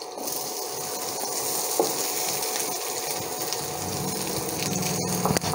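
Chopped onions sizzling in hot oil in a non-stick frying pan, with a few light clicks of a wooden spatula near the end.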